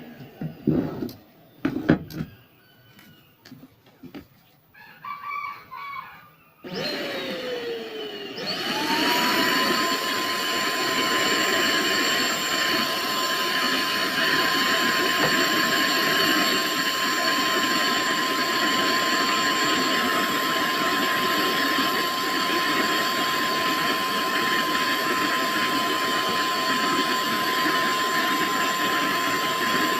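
A few knocks and handling thumps, then a Lotus vacuum cleaner switches on about seven seconds in. It spins up to a steady high whine over a hiss and keeps running.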